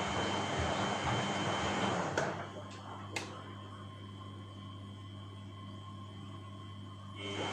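Steady, even rushing noise of a white-noise track. About two seconds in it cuts out with a click, leaving a low steady hum, and a second click follows a second later. Near the end the rushing comes back.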